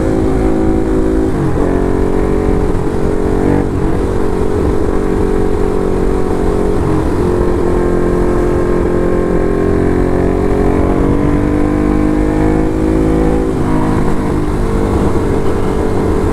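Ducati Hypermotard SP's L-twin engine running through an SC Project exhaust while riding. The engine note rises slowly through the middle and dips briefly three times, about a second and a half in, near four seconds and near the end.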